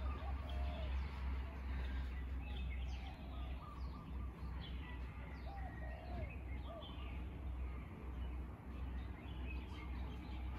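Several birds chirping and whistling in short, overlapping calls from the surrounding trees, over a low steady rumble.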